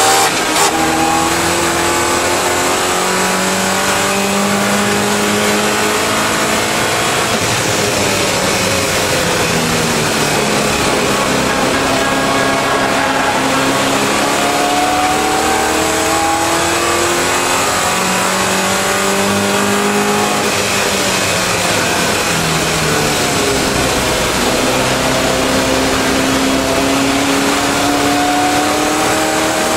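Triumph TR7 race car's V8 engine heard from inside the cabin under racing load. The engine note climbs as the car accelerates, drops twice as the driver slows, then climbs again, over constant road and wind noise.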